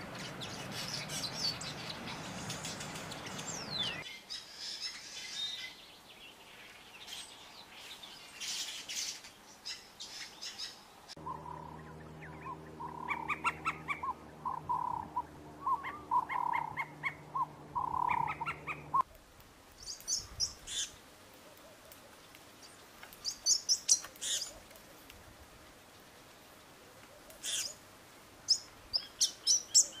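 Wild songbirds chirping and calling in quick, sharp bursts, the background shifting abruptly a few times as outdoor recordings are cut together. In the middle stretch a bird gives a run of lower, fuller call notes over a steady low hum.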